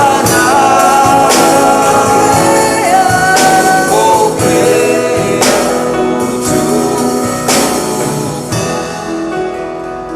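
Live gospel worship song: voices singing over a band with regular cymbal crashes, the music fading down near the end.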